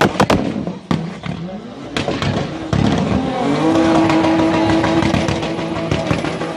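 BMW E30 drift car's engine revved hard, with a few sharp exhaust cracks in the first half second, rising in pitch, then held at a steady high pitch for about three and a half seconds.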